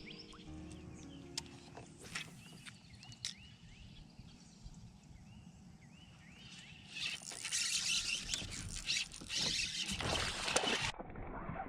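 Small birds chirping repeatedly over quiet outdoor ambience. About seven seconds in, a louder rush of noise with clicks and knocks takes over, then stops abruptly near the end.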